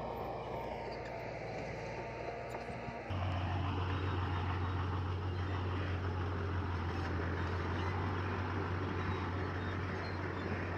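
Heavy diesel earthmoving machinery running steadily. About three seconds in the sound changes abruptly and gets louder, with a strong steady low drone.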